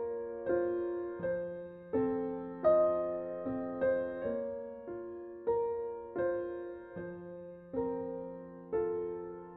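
Slow, gentle solo piano background music: single chords and notes struck about every second, each left to ring and fade.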